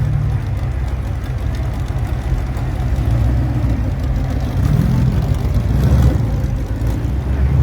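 Demolition derby vehicles' engines running with a loud, deep rumble, revving up briefly twice about five and six seconds in.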